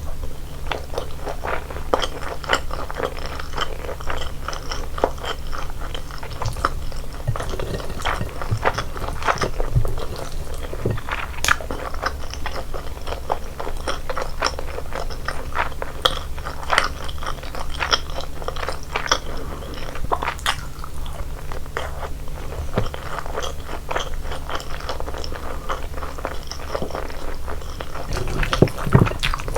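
Close-miked eating: a person biting and chewing seasoned chicken and rice, with many quick crunches and moist mouth clicks over a steady low hum.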